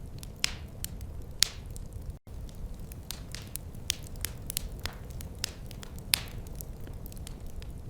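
Wood fire crackling: frequent irregular snaps and pops over a low steady rumble, with a few louder pops, near the start and about six seconds in. The sound cuts out for an instant about two seconds in.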